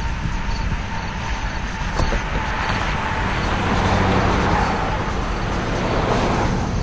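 Freight train's covered hoppers and boxcars rolling past on curved track: a steady rumble of wheels on rail that grows louder through the middle and eases near the end, with a single sharp click about two seconds in.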